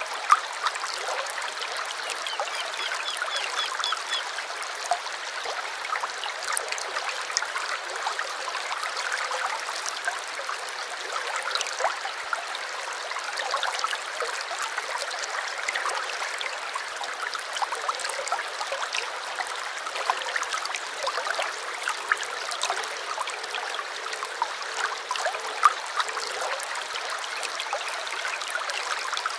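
Small stream babbling and trickling over stones, a steady water rush full of little splashes and gurgles. A short bird trill comes a few seconds in.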